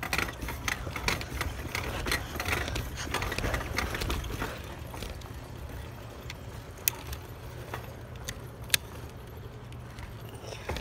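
Bicycle rattling and clicking while being ridden, with a low rumble underneath. The rattling is busy for about the first half, then eases, with two sharp clicks later.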